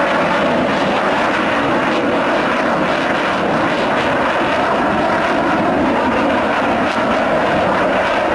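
Sukhoi Su-27 fighter's twin AL-31F turbofan engines during a flying display: loud, steady jet noise.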